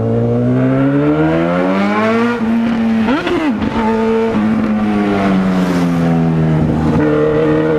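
Honda CB1000R's inline-four engine pulling under way, its pitch climbing slowly for about two seconds. About three seconds in there is a brief rise and fall in revs, then the engine eases off with the pitch falling slowly.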